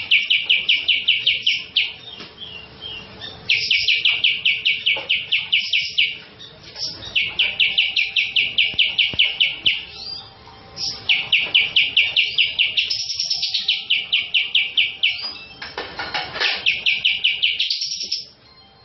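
Cucak jenggot (grey-cheeked bulbul) singing loudly: rapid runs of repeated clear notes, about six a second, in phrases of two to four seconds with short pauses between, and a rising run near the end.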